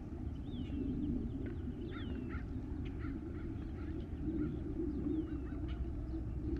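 Birds singing outdoors: a short whistle sliding downward in pitch, repeated every second or so, with quick chirps between, over a steady low background rumble.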